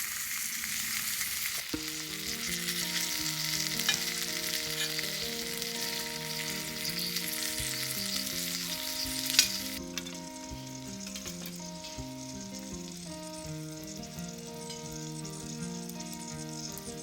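Food frying and sizzling in a pan, a steady hiss that cuts off suddenly about ten seconds in. Background music comes in about two seconds in and runs on beneath it.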